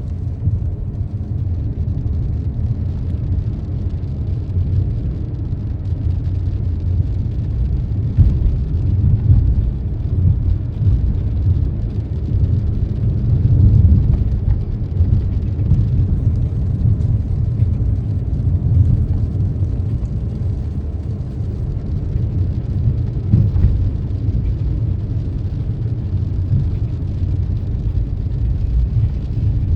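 Road traffic with a steady low rumble that swells and eases a little, with no clear single events.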